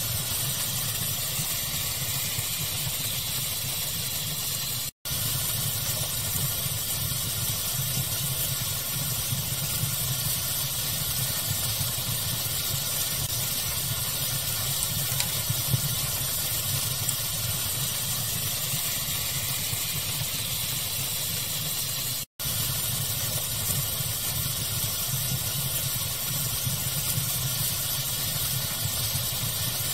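Pink noise layered with fire sounds: a steady, even hiss over a low rumble, with an occasional faint crackle. It cuts out for an instant twice, about five seconds in and again past the twenty-second mark.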